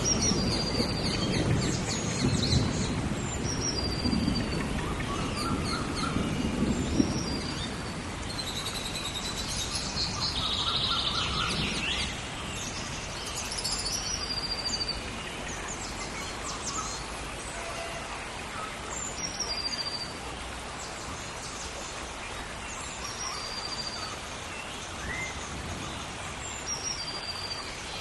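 Rainforest rainstorm: steady rain hiss with birds chirping again and again, and a low rumble of thunder over the first several seconds that fades away.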